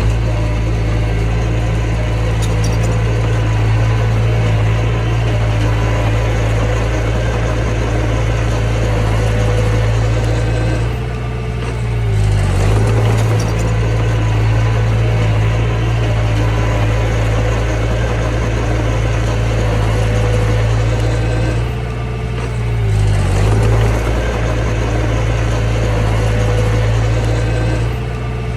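Mini bulldozer's diesel engine running steadily and loudly, its note dipping briefly and recovering twice, about eleven and twenty-two seconds in.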